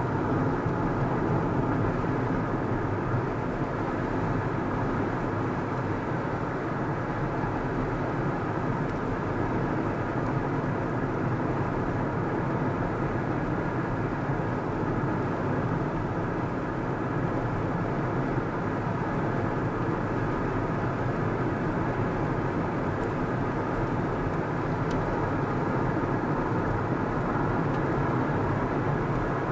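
A car driving along a road at a steady pace: an even drone of engine and tyre noise that does not change.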